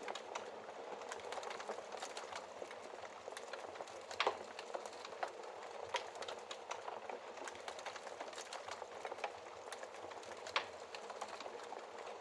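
Wood fire in a fireplace crackling, with a steady hiss of burning and irregular pops and snaps; the loudest pop comes about four seconds in.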